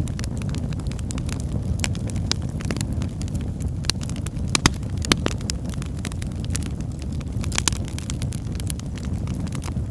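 Wood fire in a fireplace crackling, with frequent sharp pops over a steady low rumble of the burning. The biggest pops come about halfway through.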